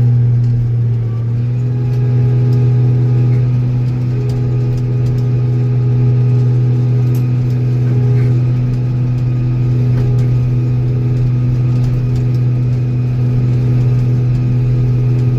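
Tractor engine running steadily at a constant speed, a loud, even drone with no change in pitch.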